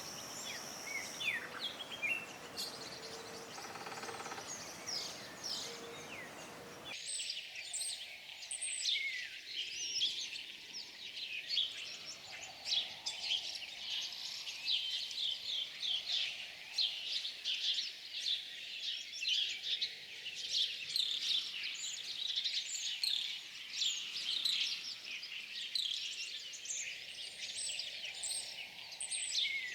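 Songbirds chirping and twittering: a few scattered calls over a steady hiss at first, then from about seven seconds in a dense chorus of many quick, overlapping high chirps.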